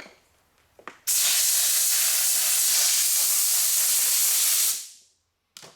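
Heat gun switched on about a second in, its blower running with a loud, steady hiss, then switched off and winding down to silence near the end. Short clicks come just before it and once after it.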